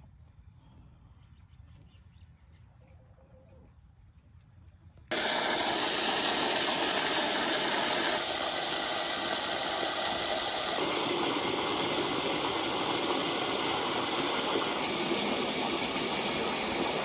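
A few quiet seconds, then a loud, steady rushing hiss starts suddenly about five seconds in and holds even.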